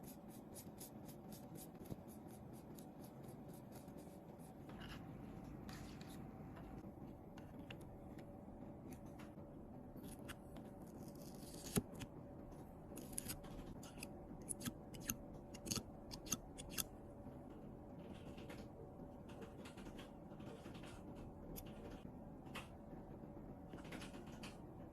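Small, irregular clicks and snips of hand tools such as tweezers or scissors working on a phone's parts, with a cluster of sharper clicks in the middle, over a faint steady hum.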